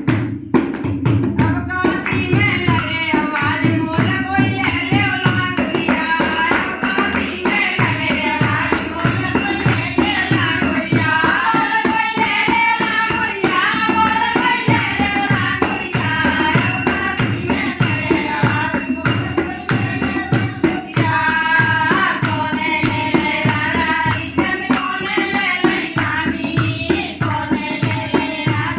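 Languriya folk devotional song: singing over a steady drum beat of about three strokes a second, with continuous jingling percussion like a tambourine.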